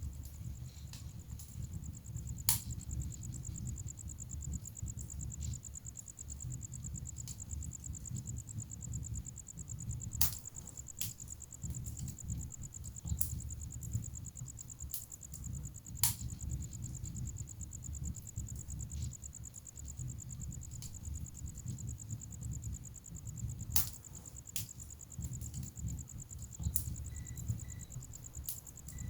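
Wood fire burning in a fireplace: a low steady flutter of flame with sharp pops and crackles of the burning logs every few seconds. A steady high-pitched trill runs under it.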